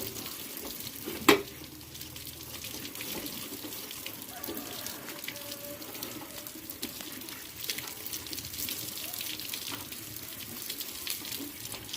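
Water running and splashing with fine crackly spatter, and one sharp knock a little over a second in.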